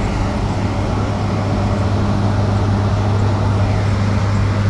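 Steady low hum and rumble inside an electric bus cabin.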